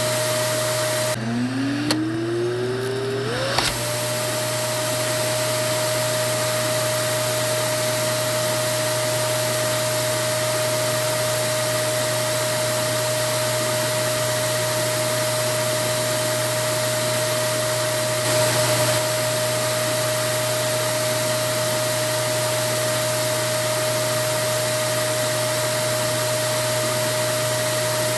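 Vacuum cleaner running with a steady rushing noise and a high motor whine. About a second in, the motor briefly drops out and spins back up, its whine rising until the steady run returns around four seconds in.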